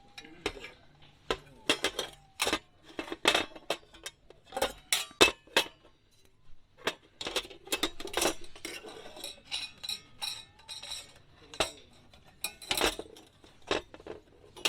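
Thin metal plates of a small DIY fire stand clinking and clattering as they are handled and fitted together. The knocks are sharp, irregular and come in quick clusters.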